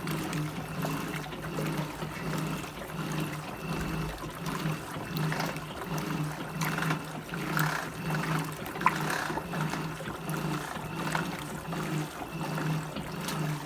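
Electrolux LT15F washing machine running with water in the tub: a low motor hum pulsing on and off about twice a second, with water sloshing and trickling throughout. A single short click comes about nine seconds in.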